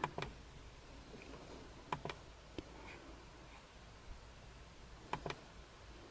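A few soft, sharp clicks, mostly in pairs a fraction of a second apart, over a faint steady hum in an otherwise quiet space.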